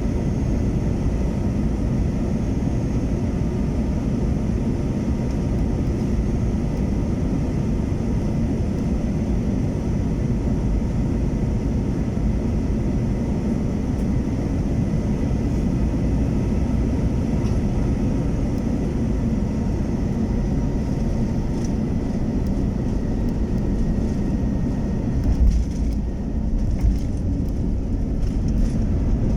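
Airbus A321-231 airliner's IAE V2500 turbofan engines on final approach: a steady low jet rumble with a faint whine above it. About 25 seconds in, a brief bump in loudness is followed by a duller sound.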